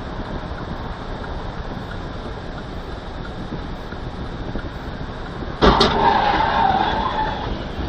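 Steady road and engine noise from a moving car, then about two thirds of the way in a sudden loud bang followed by a second or so of scraping and ringing, typical of a car crash caught by a dashcam.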